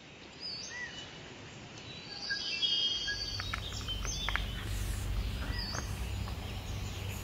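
Birds chirping and calling: scattered short high chirps and brief whistled notes. A low steady hum comes in about three seconds in.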